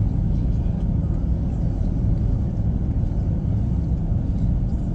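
Steady low rumble in the cabin of an Airbus A340-300 taxiing on the ground.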